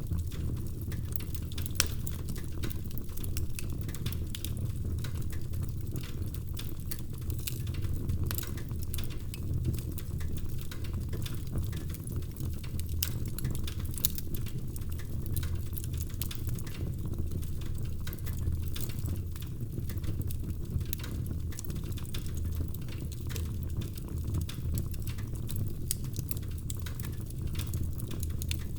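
Wood fire burning in a fireplace: a steady low rumble of flames under constant small crackles, with a couple of louder pops, one about two seconds in and one about halfway through.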